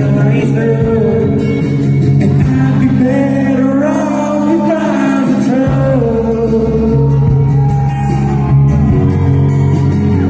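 Live country-rock band playing with a singer, amplified through an arena sound system: guitar, a steady bass and a sung melody.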